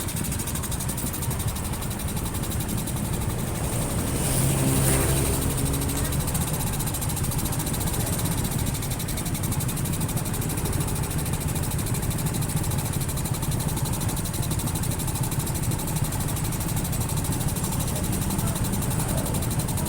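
Motorcycle engine idling steadily while stopped, before riding off again. About four to six seconds in, another vehicle's engine swells briefly louder.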